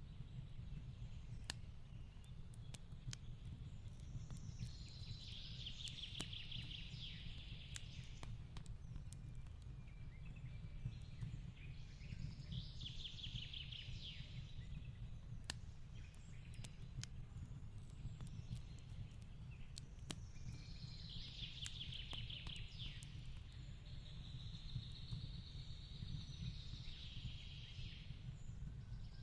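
Wood fire crackling with scattered sharp pops over a steady low rumble, while a small songbird sings short rapid trills four times.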